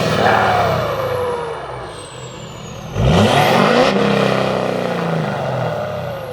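Straight-piped Ford F-250 diesel truck revved hard twice, each rev climbing sharply and then falling back toward idle, with a faint high whistle falling slowly in pitch.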